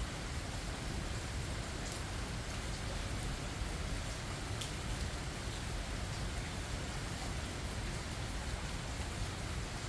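Steady rain falling, an even hiss with a few sharper drop ticks, about two seconds and four and a half seconds in.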